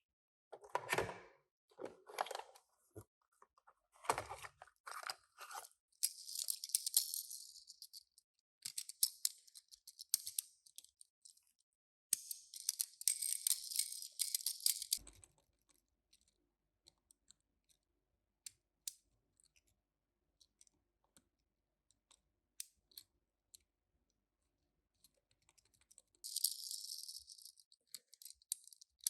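Toy packaging being handled and opened: several bursts of crinkling and rustling, the longest about a second and a half to three seconds each, mixed with small clicks and knocks. There is a quiet stretch in the middle.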